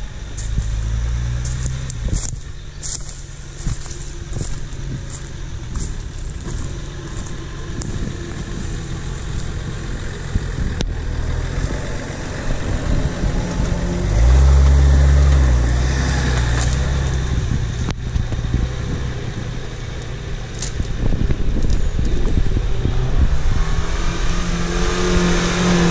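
Off-road 4x4 engines labouring and revving as they climb a steep forest slope, with sharp cracks of branches under the tyres in the first few seconds. A loud surge of revving about halfway through, and another engine revving up in rising steps near the end.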